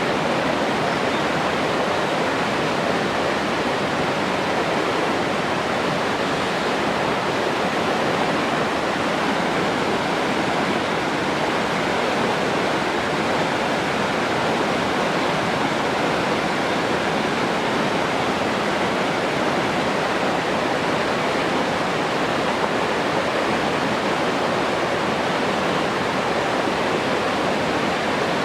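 Rushing water: a steady, even rush with no breaks or changes.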